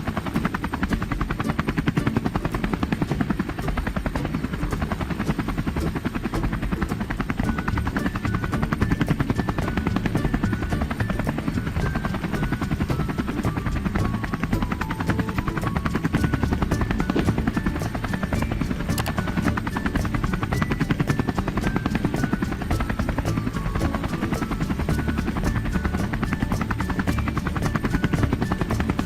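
Helicopter rotor sound effect, a fast steady chopping, with a simple melody of short notes playing over it.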